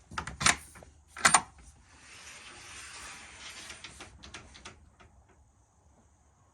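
Two sharp knocks about a second apart, then a soft rustling hiss and a few light clicks.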